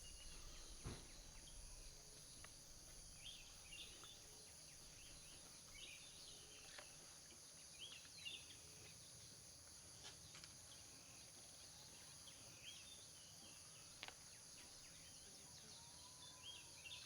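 Faint natural ambience: a steady, high insect drone with small birds chirping on and off, and a few light clicks.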